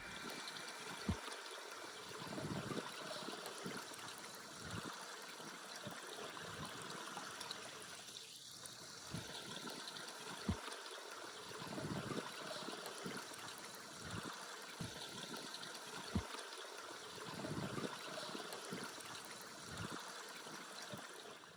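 Steady sound of running water, like a stream trickling, with a few short soft knocks scattered through it.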